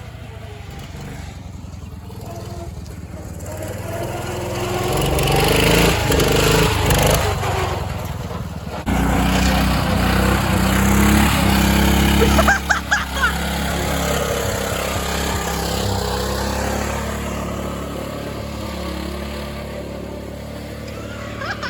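Garden tractor engine running and being driven, getting louder from about four seconds in, jumping up suddenly near nine seconds, then easing back to a steadier run.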